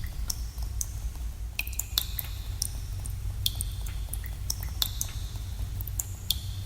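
Water drops falling irregularly in a cave, each a sharp plink with a short ringing, echoing tone, several a second at times, over a steady low rumble.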